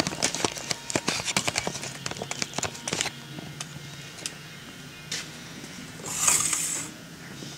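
Metal saw chain and a long chainsaw bar being handled and fitted onto a saw: a quick run of clattering, clicking chain links over the first few seconds, then a few scattered clicks and a short scraping rush near the end.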